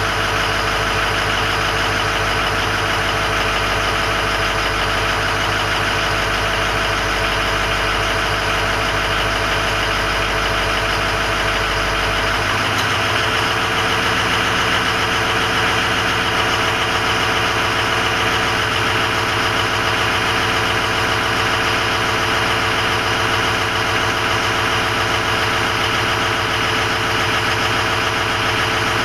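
Ford 6.0 Powerstroke turbo-diesel V8 idling steadily on a still-cold engine, oil at about 51°F, in a truck that suffers from cold-start injector stiction. About 13 seconds in, the deepest part of the rumble drops away and the idle runs on.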